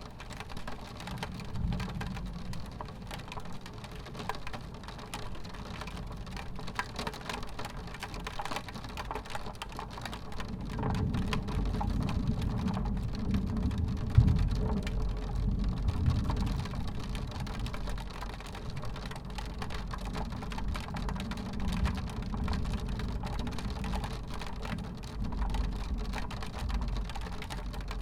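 Rain falling on a window pane, a steady hiss of fine drop ticks on the glass. About ten seconds in, a low rumble of thunder swells up, peaks a few seconds later and slowly fades.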